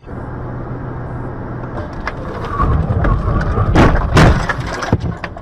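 Vehicle noise building up, then a collision: two loud impacts about half a second apart, about four seconds in, and a smaller knock a second later.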